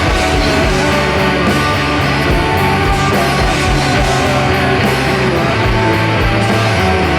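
Live rock band playing loudly: distorted electric guitars over a steady bass line and regular drum hits, with no singing.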